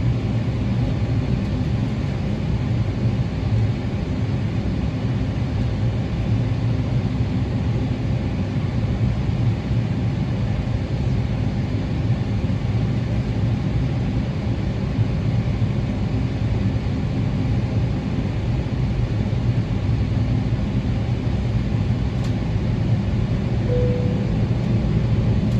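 Steady low rumble inside the cabin of a Boeing 777-300ER: engine and airframe noise heard from a passenger seat, even in level throughout.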